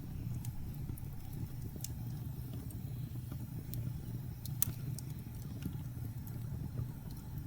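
Wood fire crackling with scattered sharp pops, the loudest about halfway through, over a steady low rumble of blizzard wind.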